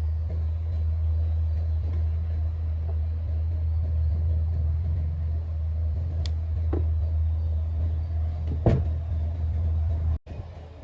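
A machine running with a steady low hum, with a few sharp clicks and knocks over it; the sound cuts out abruptly near the end.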